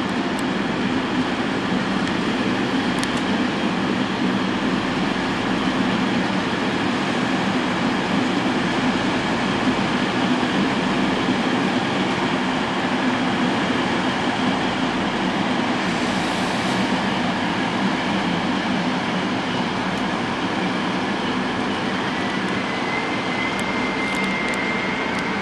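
Trains running through a rail yard: a steady rumble of wheels on track. A thin, high squeal comes in near the end.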